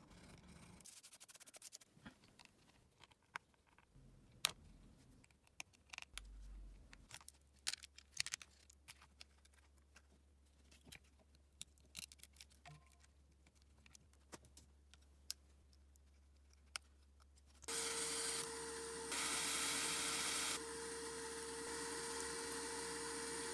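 Small tools clicking and tapping against a smartphone's parts during disassembly, in scattered light clicks. About three-quarters of the way through, a steady hiss with a constant hum starts and runs on.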